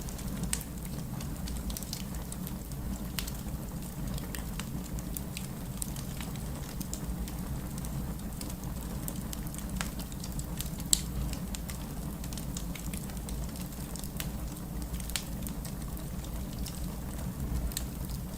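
Wood fire crackling with rain falling: scattered sharp pops and snaps over a steady low rush, with one louder pop about eleven seconds in.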